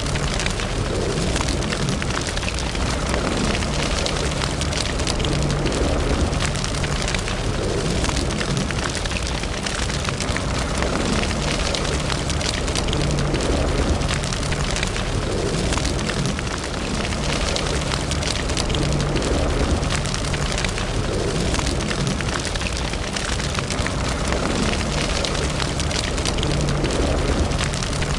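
Fire burning in a fireplace, crackling steadily with many small pops and snaps over a low rumble of the flames.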